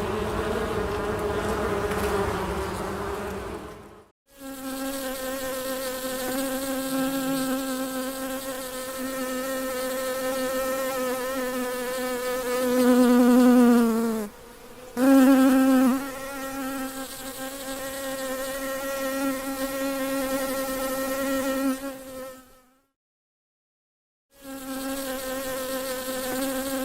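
Honey bee buzzing: a steady, pitched drone with many overtones, broken by a few short silent gaps. About 13 seconds in it grows louder and its pitch dips briefly.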